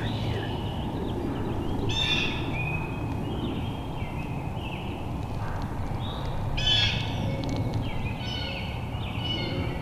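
Wild birds calling in the woods: a run of short, clear repeated notes, several in quick succession, some dropping in pitch, over a steady low hum.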